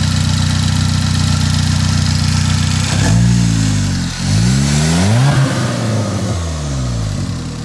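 Turbocharged Cobalt SS four-cylinder engine in a DF Goblin kit car idling steadily, then revved up and let fall back a few times from about three seconds in.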